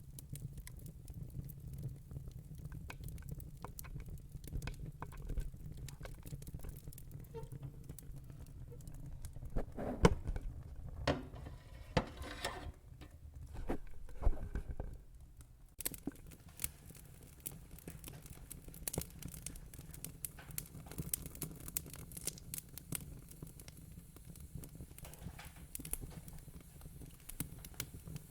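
Wood fire crackling: scattered small pops over a low steady rumble, with a denser run of louder cracks in the middle.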